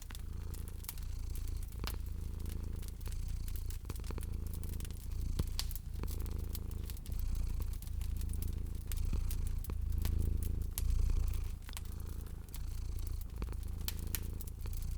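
A cat purring, a low rumble that swells and eases with each breath about once a second. Over it, a wood fire crackles with many small sharp pops.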